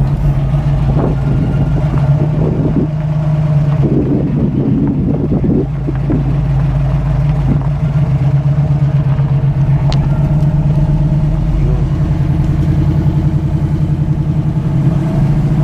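Chevrolet Nova hot rod's engine and exhaust droning steadily under way, heard from inside the car, with a low even pulsing throb.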